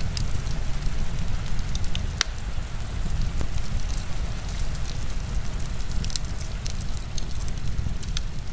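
Heavy rain and a crackling wood fire together: a steady low rush of rain, with frequent sharp, irregular pops and crackles from the burning wood.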